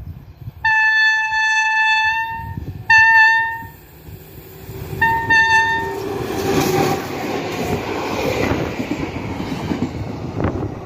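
Class 441 electric locomotive sounding its horn three times as it approaches: a long blast, a short one, then a blast of about a second. This is followed by the running noise and wheel clatter of the locomotive and its passenger coaches passing close by.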